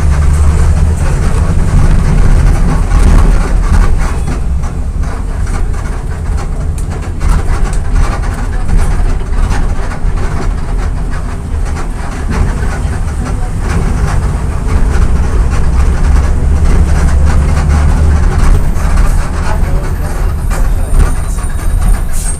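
Volksbus 17.230 EOD bus's diesel engine running as the bus drives, a loud low rumble with body and road rattle. The engine note eases off twice and builds again in the second half.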